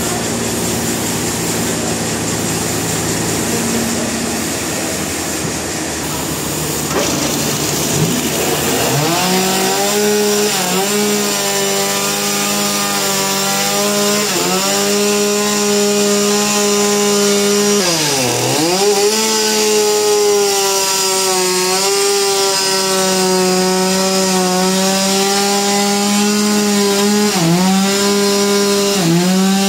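Power saw cutting into wood. Rougher machine noise at first gives way about eight seconds in to a steady high running tone, which sags briefly in pitch several times as the saw loads in the cut, most deeply near the middle.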